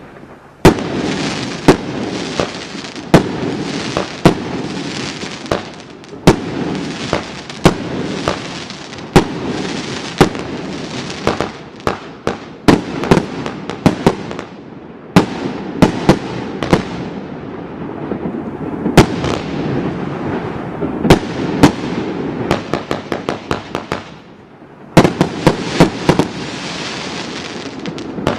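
A consumer fireworks compound cake firing continuously: a dense crackle under many sharp report bangs in quick succession. It thins briefly just before the last few seconds, then bursts back in with a fresh salvo.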